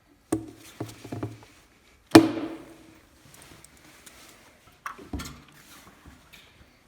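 A series of knocks and clunks from handling hard objects, the loudest a single bang about two seconds in that rings briefly.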